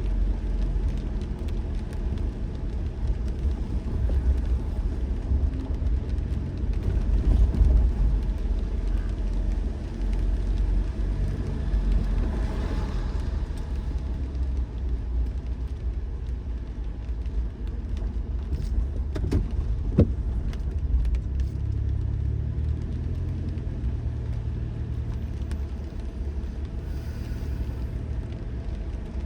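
A car driving, with a steady low rumble of engine and road noise and the hiss of tyres. The noise swells briefly about twelve seconds in, and there is a short sharp sound about twenty seconds in.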